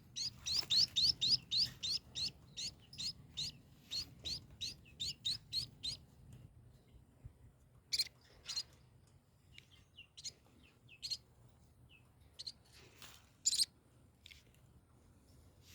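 Baby birds (nestlings) making begging chirps: a fast run of short, high, rising chirps, about four a second, then after about six seconds only scattered single chirps.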